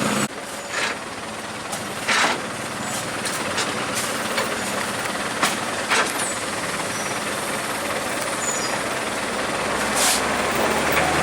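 Steady rushing noise of motor vehicles on the road, with a few short sharp knocks; a low engine hum comes in near the end.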